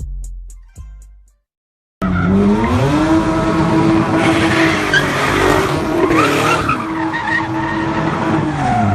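Deep bass hits of intro music fade out, and after a brief gap a car engine revs hard, its pitch rising and falling, with tires squealing and skidding as the car spins donuts.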